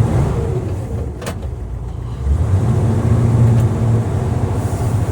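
A 1960s Ford fire truck's engine running as the truck drives in gear, a low rumble that grows louder about two seconds in as it takes more throttle.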